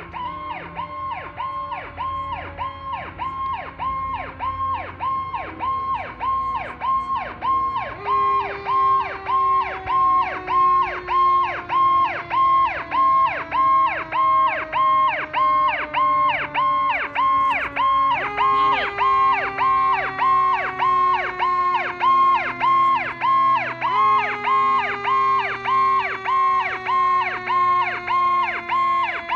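Fire truck siren cycling quickly up and down, about twice a second, getting louder over the first several seconds as it approaches. Beneath it, a second, lower tone slowly falls and jumps back up about every six to ten seconds.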